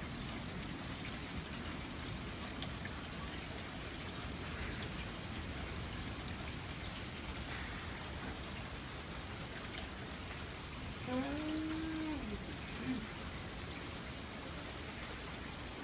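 Steady rain falling during a thunderstorm, an even hiss with no thunder. About eleven seconds in, a short hummed voice sound rises and falls over it.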